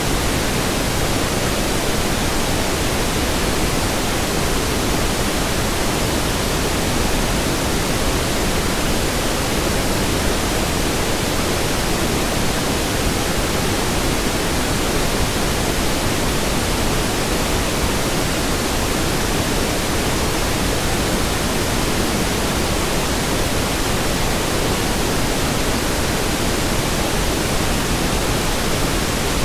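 Steady pink noise: an even hiss across the whole range with no changes or events.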